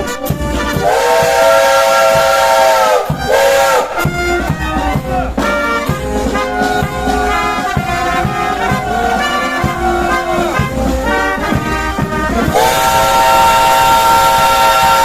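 Steam locomotive whistle sounding a held chord of several notes over a hiss. It blows for about two seconds just after the start, and again for the last two and a half seconds. Brass music plays in between.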